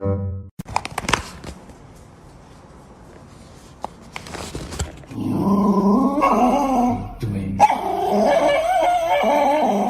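A dog vocalizing: a few knocks in the first second, then from about halfway through long, loud cries that waver up and down in pitch.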